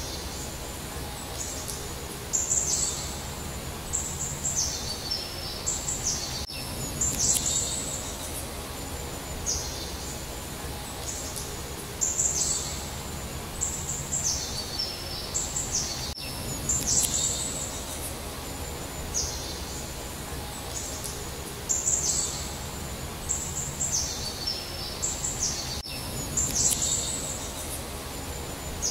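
Songbirds singing: clusters of high chirping phrases that fall in steps, over a steady low background noise. The same stretch of birdsong repeats about every ten seconds, as a looped recording.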